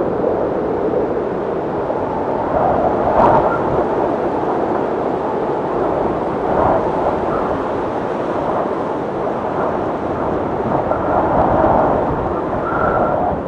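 Snowstorm wind blowing hard and steadily, rising and falling in gusts, with a thin whistle of wind near the end.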